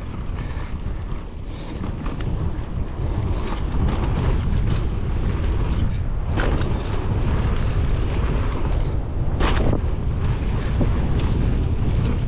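Wind buffeting the camera microphone during a downhill mountain bike run, a steady heavy rumble, with a few short clatters from the bike over rough trail, the sharpest about six and nine and a half seconds in.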